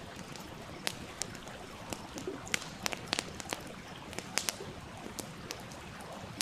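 Wood fire crackling with sharp, irregular pops over the steady rush of a stream.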